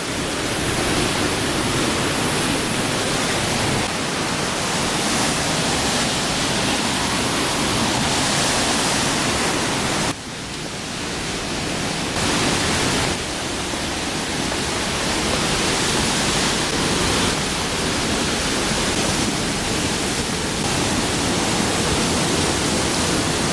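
Waterfall: the steady noise of falling water close by, broken by a brief sudden dip about ten seconds in.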